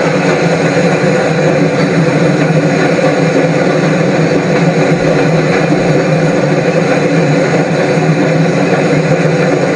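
A train running: a loud, steady, unbroken noise with no separate beats or chuffs.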